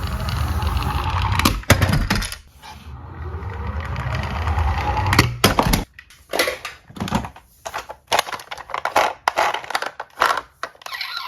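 Die-cast toy cars rolling down a slope with a steady rumble, then a run of separate sharp clacks as they knock together and tumble.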